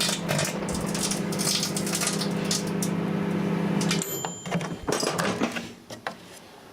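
Microwave oven running with a steady hum while an old mirror inside crackles and snaps, its metal backing arcing and the glass cracking from the heat. About four seconds in the hum stops suddenly, followed by a short high beep and a few scattered clicks.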